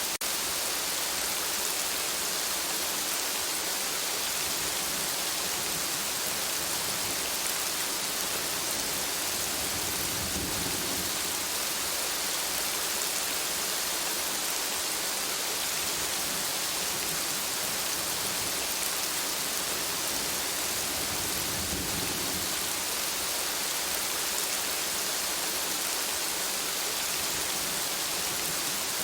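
Steady rain falling as an even hiss, with two brief low rumbles, one about a third of the way in and another about three quarters of the way in.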